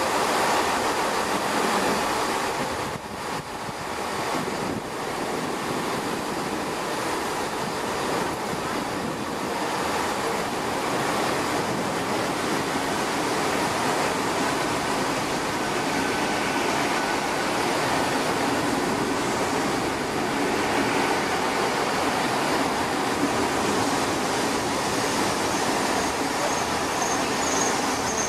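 GWR Intercity Express Train pulling slowly into the platform, a steady rushing noise. A faint high brake squeal begins near the end.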